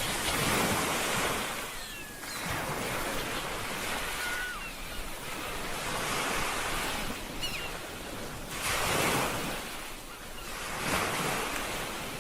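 Ocean waves breaking and washing in, the surf swelling and ebbing every few seconds, with a few faint short chirping calls over it.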